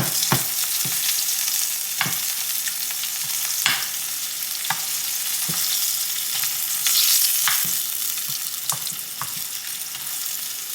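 Breaded asparagus spears frying in hot oil: a steady sizzle with scattered sharp ticks and taps, about one every second or so.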